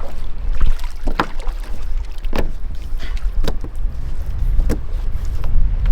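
Wind rumbling on the microphone, with a few sharp knocks about a second apart.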